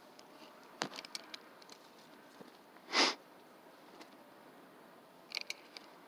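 A few faint clicks and taps, with one short sniff about three seconds in.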